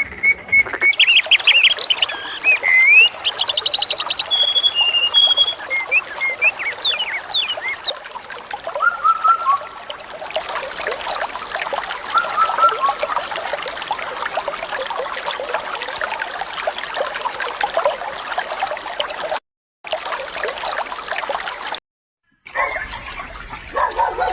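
Small birds chirping and trilling, then a long stretch of water trickling with a few bird calls over it. The sound cuts out completely twice, briefly, near the end.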